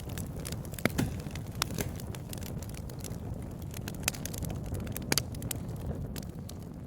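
Wood fire crackling, with irregular sharp pops and snaps over a steady low rushing noise.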